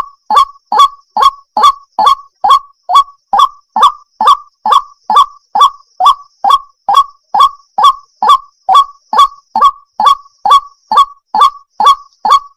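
Water hen calling: one short, falling call repeated over and over in a steady, even rhythm of a little over two calls a second.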